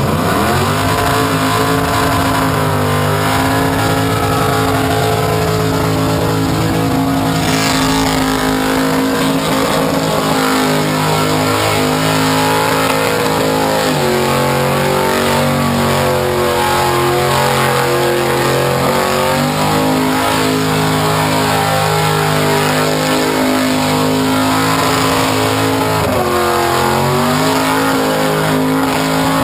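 Burnout car's engine held at high revs while it spins its rear tyres in a smoky burnout, the engine note dipping and climbing back twice, about halfway through and near the end.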